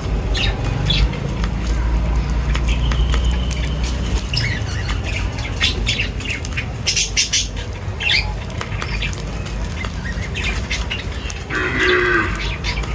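Several birds chirping and squawking in many short, sharp calls, with one longer harsh, buzzy call near the end, over a steady low rumble.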